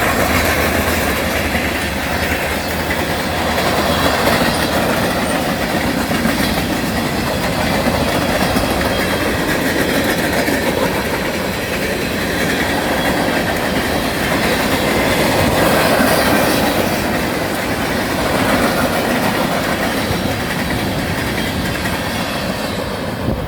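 Freight train cars rolling past, their wheels clacking over the rail joints in a steady loud rumble.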